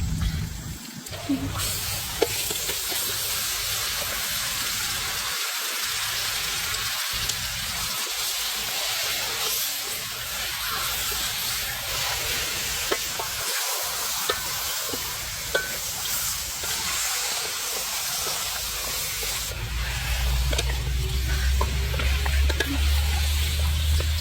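Food sizzling in hot oil in a pan: a steady hiss that starts about a second and a half in, with scattered small crackles. A low rumble joins near the end.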